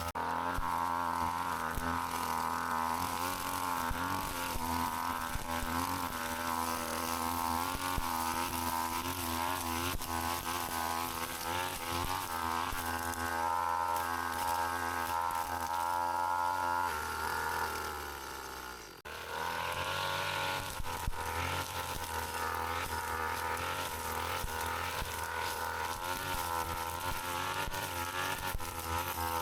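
Two-stroke brush cutter engine running at working speed; near two-thirds through its pitch sags and it briefly drops out, then it runs again.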